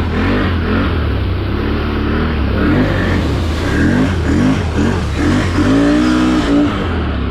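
A vehicle engine running, its revs rising and falling repeatedly over a steady low drone, with a longer rev near the end.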